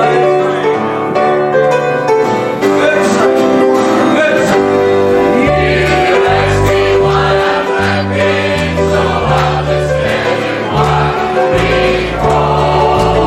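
Gospel music: a choir singing over instrumental accompaniment with a steady bass line.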